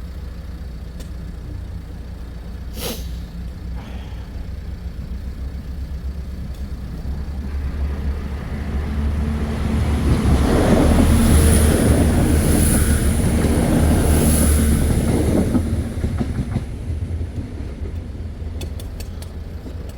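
A train passing close by: its rumble builds, is loudest for several seconds in the middle and then fades, with three short high-pitched squeals from the wheels during the loudest part.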